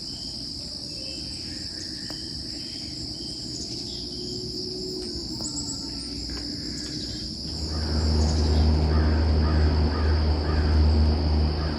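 Crickets trilling steadily while a crow caws several times. A low, steady rumble comes in about two-thirds of the way through.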